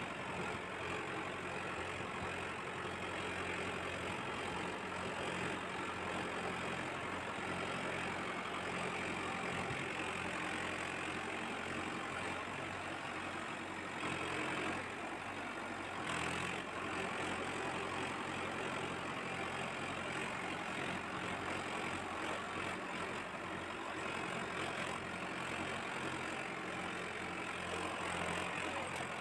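Mahindra tractor's diesel engine running steadily under field work, with a brief change in its note about halfway through.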